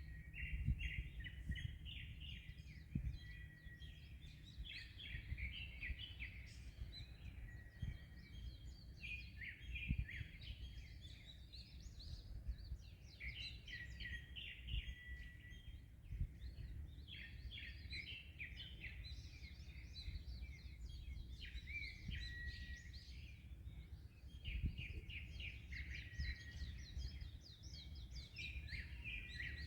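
Songbirds singing in bursts of rapid chirps and short whistles, phrase after phrase, over a steady low rumble of wind and sea waves.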